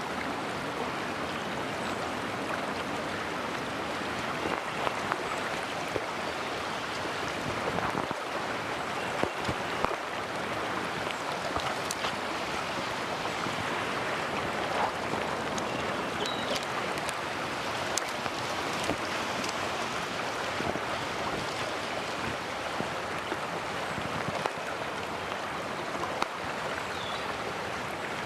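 A mountain stream running with a steady rush of water, with a few faint short clicks.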